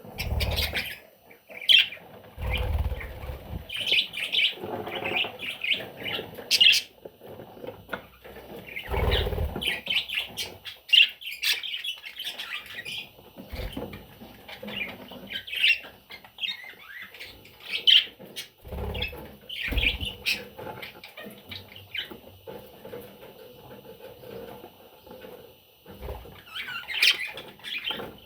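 Baby budgerigars chirping and chattering in many short, scratchy calls, with a few low thumps or flutters of movement in between.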